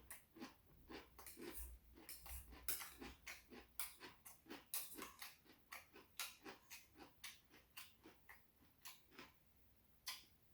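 A person chewing rice cake ramen close to the microphone: soft wet mouth clicks and smacks, about two to three a second, that thin out near the end.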